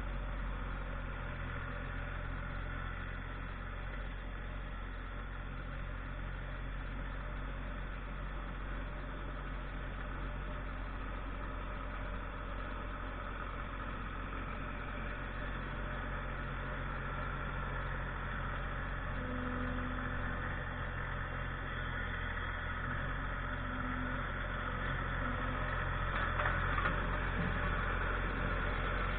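Tractor engine running steadily at a constant speed, getting a little louder near the end.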